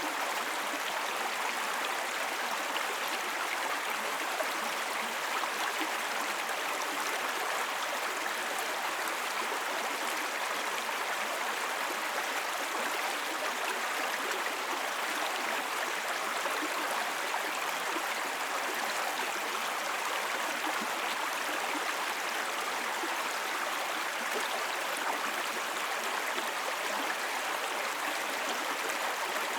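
A small brook babbling over stones, a steady, even rush of running water.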